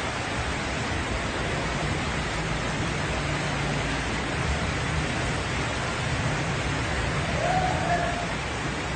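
Heavy rain and floodwater rushing through a city street, a steady, even noise.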